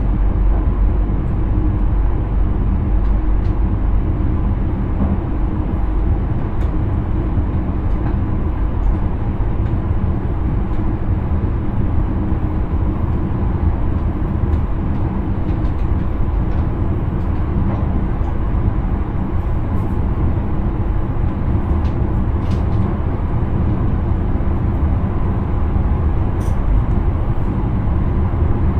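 Steady running noise of a passenger train heard inside the driver's cab: a deep, even rumble of wheels on rail with a faint steady hum over it.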